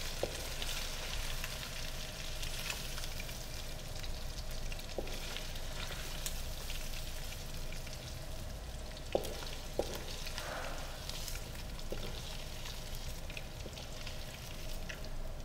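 Golden fried chicken pieces in a hot metal pan give a steady sizzle as they are scraped with a spatula into a pot of cream sauce. A few light knocks of the spatula against the pan sound through it.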